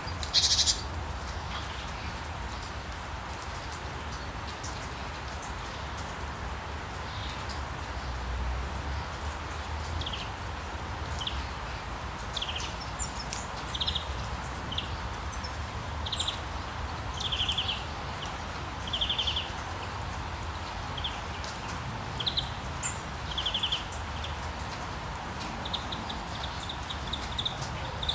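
Rainforest ambience: a steady hiss of rain with short, buzzy animal calls repeated about once a second through the middle, and a louder call about half a second in.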